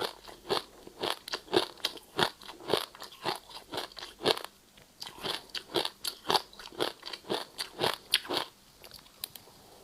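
Ice being bitten and chewed close to the microphone: a steady run of sharp crunches, about two a second, easing off briefly near the end.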